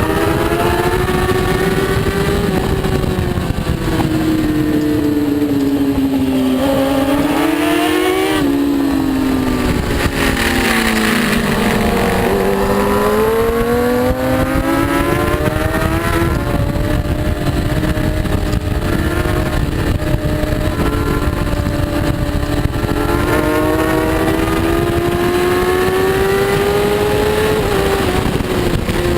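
Racing superbike engine at speed, its pitch rising and falling as the rider backs off and accelerates through the gears. It drops sharply twice, around a quarter and then about two-fifths of the way in, then climbs and holds high before falling near the end.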